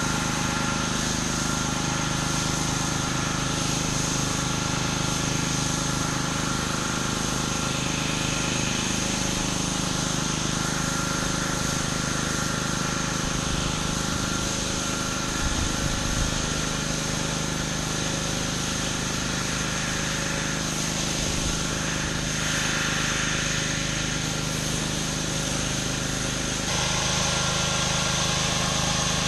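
Engine-driven pressure washer running steadily while its water jet sprays onto concrete, with an abrupt change in the sound near the end.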